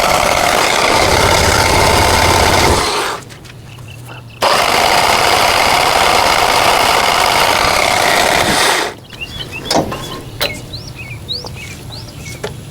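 Generac 20 kW standby generator's engine cranking on its starter in two attempts of about four seconds each, separated by a short pause, without starting. The engine is cold and refuses to catch after a mixer assembly replacement.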